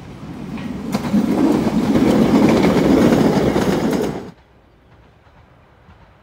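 Island Line Class 483 electric train (ex-London Underground 1938 tube stock) running past close by. Its noise grows louder over the first second, stays loud, then cuts off suddenly about four seconds in.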